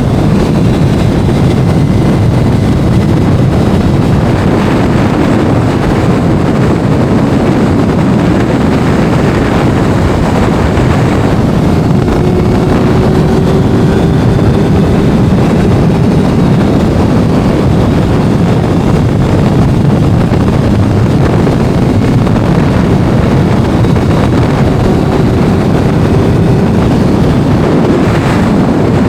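Wind rushing and buffeting hard on the microphone of a sport motorcycle at speed, with the bike's engine note only faintly showing through; the sound stays loud and steady throughout.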